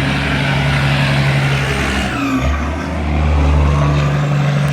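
Truck engine running with a steady low drone; its note shifts about two seconds in and then settles again.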